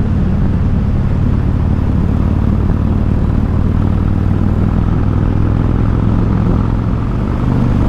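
Harley-Davidson Road King's V-twin engine running steadily while riding at cruising speed, a low even rumble whose pitch rises a little near the end.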